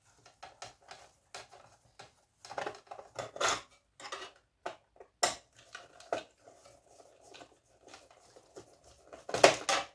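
Irregular clicks, taps and light clatter of plastic and metal parts as old electronic equipment is pulled apart by hand, with a louder cluster of knocks near the end.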